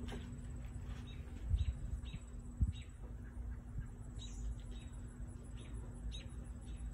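Small birds chirping off and on in short, high chirps over a low steady outdoor rumble and hum. Two soft thumps come about one and a half and two and a half seconds in.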